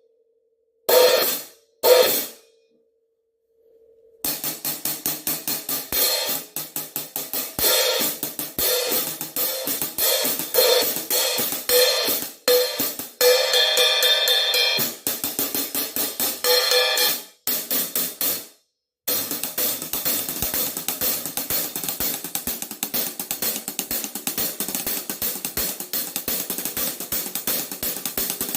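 A pair of 15-inch Omete Knight Series hi-hat cymbals played with a stick in quick, even strokes, mostly short and crisp. About halfway through they are opened to a ringing wash for a couple of seconds, and there are brief pauses near the start and just past the middle.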